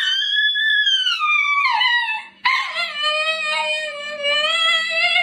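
A dog howling: two long drawn-out howls. The first rises and then falls in pitch; the second, about halfway through, is lower and held steadier.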